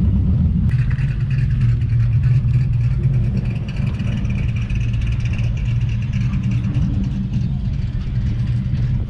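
Car engine running with a steady low exhaust rumble, joined about a second in by a steady higher hiss or whine.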